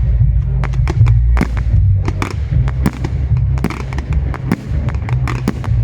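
Fireworks display: many sharp bangs and crackles, several a second, over bass-heavy music.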